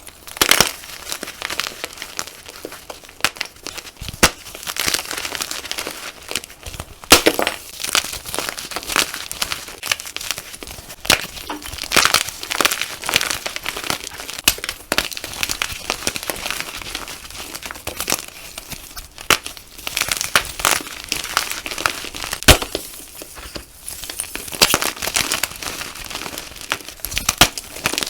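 Gym chalk being crushed: dense crunching and crackling with many sharp, glassy snaps, some much louder than the rest.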